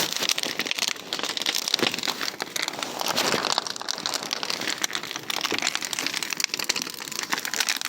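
Large bonfire crackling, a dense run of irregular pops and snaps over a steady hiss.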